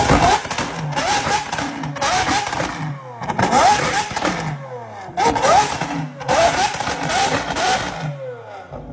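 Car engine revving hard, its pitch climbing in quick repeated sweeps that break off and start again several times.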